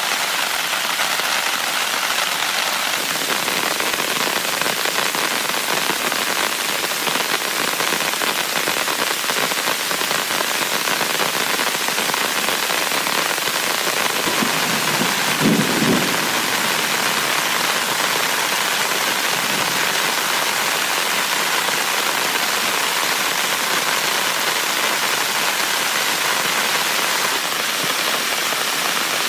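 Heavy rain drumming steadily on a tent. About halfway through, a short low rumble of thunder swells and fades within about two seconds.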